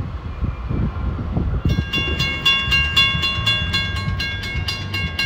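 Train rolling by with a low rumble and wheel clatter. About two seconds in, a bell starts ringing rapidly over it, about four strikes a second, and it stops near the end.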